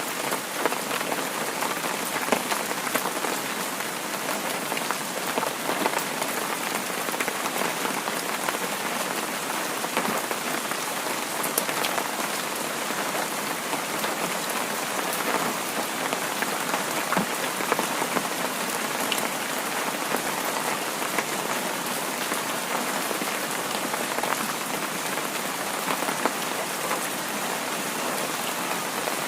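Heavy rain falling steadily, an even hiss dotted with many sharp little drop hits.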